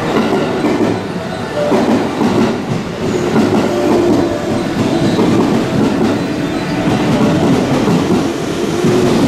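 Yamatoji Line rapid electric train pulling in alongside the platform, its cars rolling past with a steady rumble of wheels on rails as it slows to a stop.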